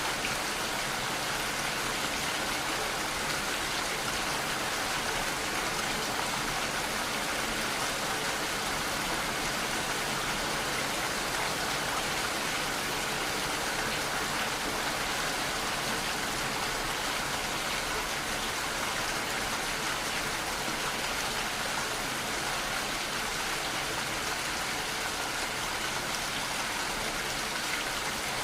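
Steady, even rainfall with no thunder or other events.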